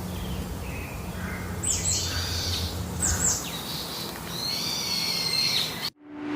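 Birds calling: a series of high calls, several of them sliding downward in pitch, over a low steady hum. The sound cuts off suddenly near the end.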